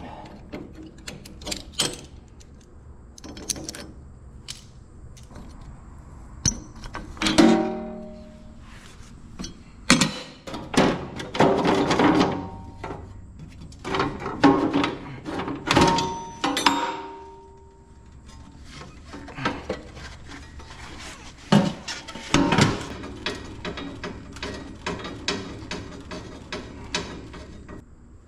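Irregular clanks and knocks of metal parts being handled, a few of them ringing briefly.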